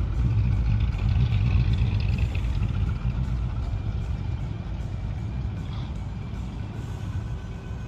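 Steady low rumble of a car engine running at a car show.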